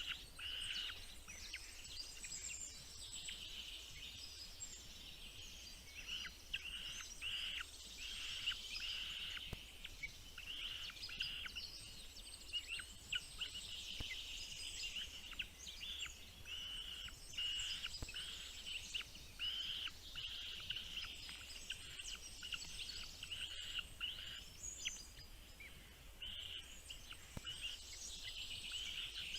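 Small birds chirping: a dense run of many short, high calls throughout.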